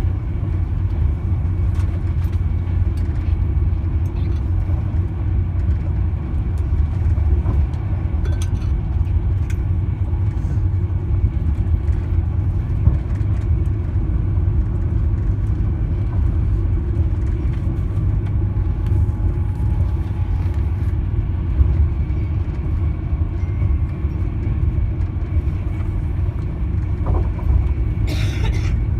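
Class 390 Pendolino electric train running, heard from inside the carriage: a steady low rumble of wheels on track that holds at an even level, with a brief hiss near the end.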